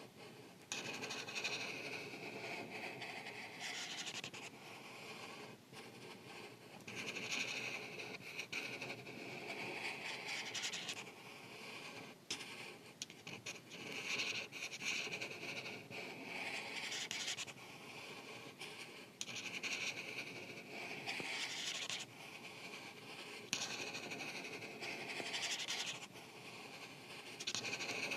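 Art marker tip scratching across paper as an area is filled in. The strokes go in stretches of a second or two with short pauses between them.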